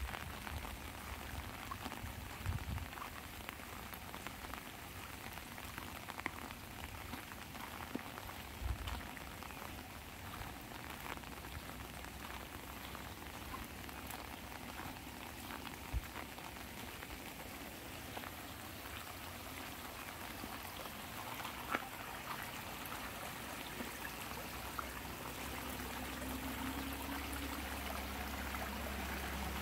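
Light rain pattering on an umbrella: a steady hiss of many small drop ticks, with a few louder single drops. A low rumble builds near the end.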